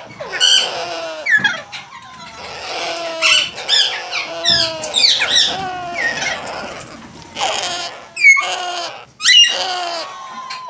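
Grey parrot vocalising: a busy run of varied calls and squawks mixed with quick whistles that sweep sharply up and down in pitch.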